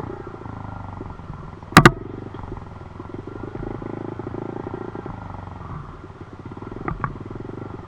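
Dirt bike engine running, its speed and strength rising and easing off, with two sharp double knocks, one a little under two seconds in and one near the end.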